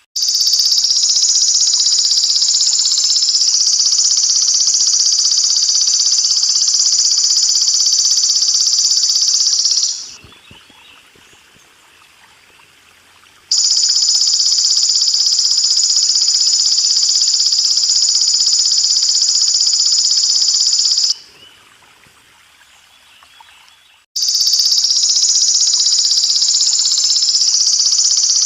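Belalang emas (golden grasshopper) singing a continuous, very high buzzing trill in long bouts: about ten seconds, then a pause of about three seconds, about seven seconds more, another short pause, and it starts again near the end. Faint trickling water lies underneath in the pauses.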